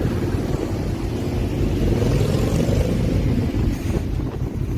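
Steady low rumble of road traffic mixed with wind buffeting the microphone, swelling briefly about two seconds in.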